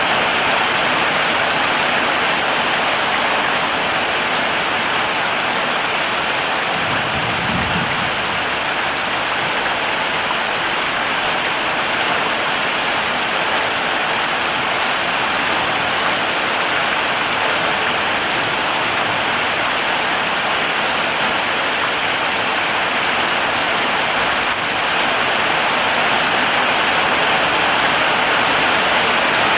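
Heavy rain falling steadily, a dense even hiss, with a brief low rumble about seven seconds in.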